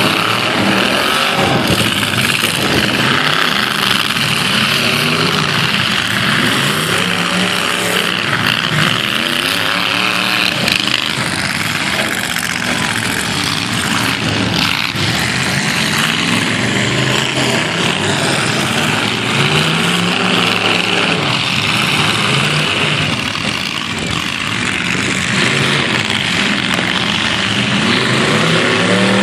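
Several half-ton pickup truck engines revving up and down in a demolition derby, the revs rising and falling over and over.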